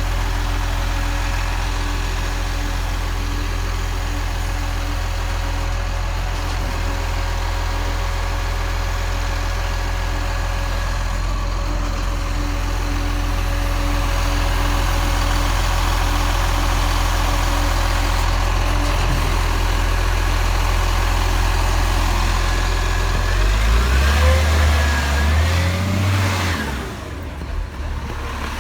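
Garbage truck engine running steadily. About 24 seconds in it grows louder with a rising whine for a few seconds, then drops away near the end.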